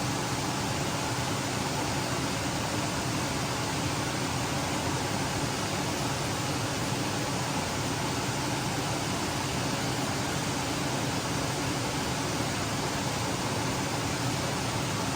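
A steady, even rushing noise that stays unchanged, with no knocks or tones standing out.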